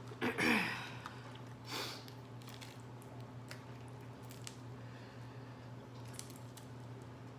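Close-up eating of a crawfish and crab boil: a loud wet squishy mouth sound with a falling pitch within the first second, another shorter one about two seconds in, then faint scattered clicks.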